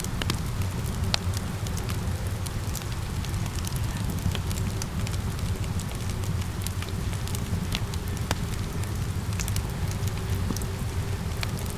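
Wood fire crackling with irregular sharp pops over a steady low rumble, mixed with the even hiss of falling rain.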